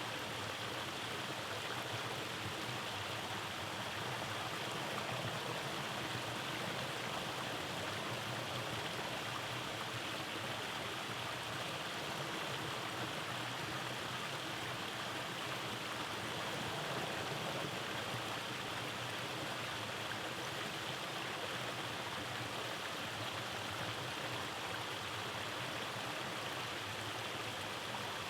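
Rainforest stream running over cascades: a steady, even rush of flowing water.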